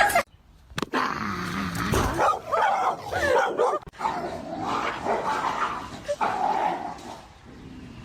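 A dog barking and whining in a run of yips and wavering cries, with a short break about four seconds in.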